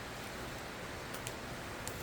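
Campfire burning with a steady hiss and a few faint crackles, about a second in and again near the end.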